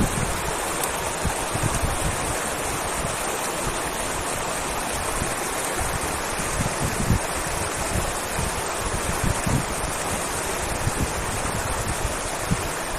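Steady rush of flowing river water, with irregular low bumps underneath.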